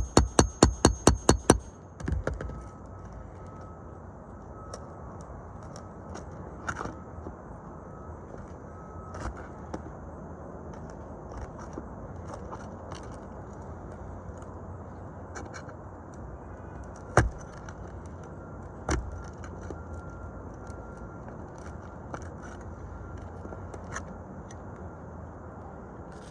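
Roofing work on shingles: a quick run of evenly spaced hammer blows with a ringing tone stops about a second and a half in. Then comes steady scraping and crackling of shingles being worked, with scattered clicks and two sharp knocks about two-thirds of the way through.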